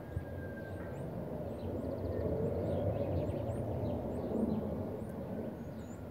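A steady low rumble of outdoor noise that swells slightly in the middle, with small birds chirping repeatedly in short high notes above it.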